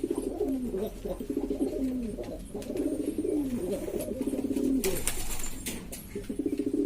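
Several domestic pigeons cooing over one another, repeated throbbing coos with falling glides at the end of each phrase, with scattered clicks and taps among them.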